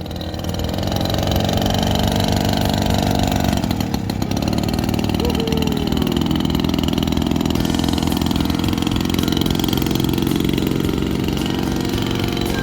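Small mini bike engine running steadily, with a higher whine over the first few seconds that drops away about three and a half seconds in.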